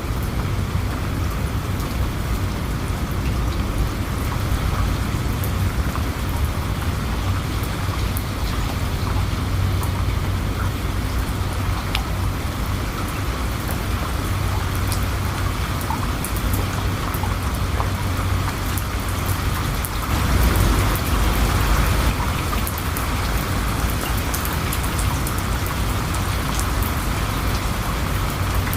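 Steady rain falling, with individual drops ticking on a surface. A low rumble swells briefly about two-thirds of the way through.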